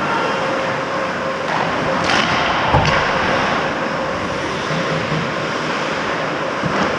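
Ice hockey play heard from the goalie's position: a steady hiss of skates and rink noise, with a couple of sharp clacks, likely stick or puck, about two and three seconds in.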